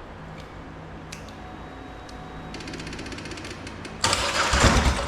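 A Polaris Sportsman 850 quad's engine being cranked by its electric starter for just over a second, loud and sudden, about four seconds in, after a fast, even mechanical ticking from about halfway in. The engine turns over and comes close to firing but does not start.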